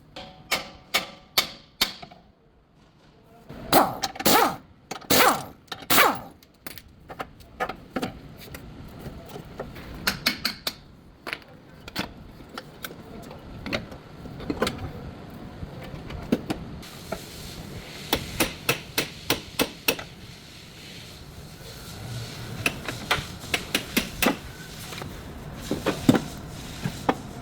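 Irregular sharp knocks and hammer strikes on metal during car repair work, some single and some in quick runs of several blows.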